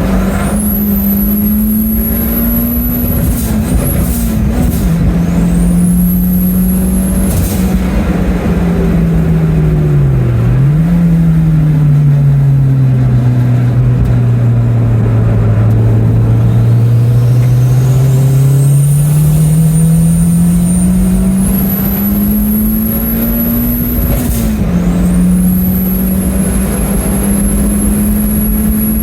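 Turbocharged Toyota 3S-GTE four-cylinder in an MR2 race car under hard throttle. The engine note climbs, drops suddenly at shifts about 4 and 10 seconds in, sinks low and slowly climbs again, then drops once more near the end. A high turbo whistle rises after each shift and holds.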